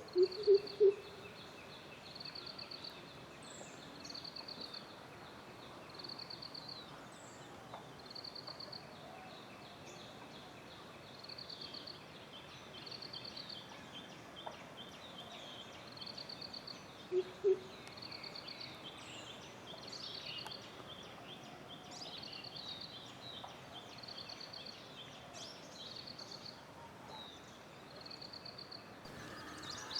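Forest birds calling: a short, high trilled note repeats about every second and a half throughout, with other chirps scattered around it. A few loud, low pulsed calls come in the first second, and two more about halfway through.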